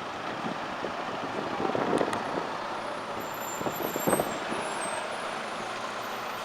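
Articulated city bus and street traffic, a steady roadway noise with brief louder knocks about two and four seconds in.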